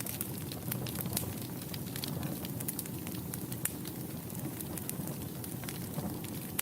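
Wood fire burning in a fireplace: a steady low rumble of the flames with many irregular sharp crackles and pops of burning wood.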